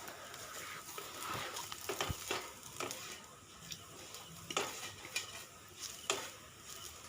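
Diced potatoes frying in oil in a kadai with a soft sizzle. A spatula scrapes and knocks against the pan several times as they are stirred.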